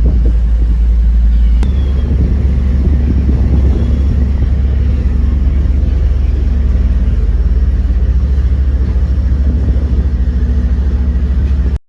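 Steady low rumble of a moving vehicle, with a single click about a second and a half in; it cuts off abruptly near the end.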